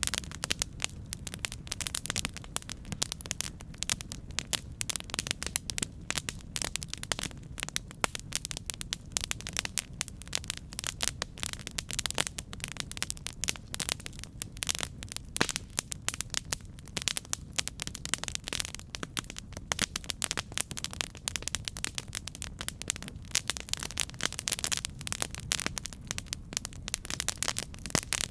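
Campfire burning, with a dense, continuous stream of sharp crackles and pops over a low steady rush.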